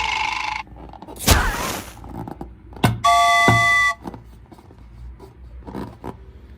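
A string of cartoon-style sound effects: a hiss that cuts off, a sharp hit, a knock, then a horn-like tone held for about a second, three seconds in.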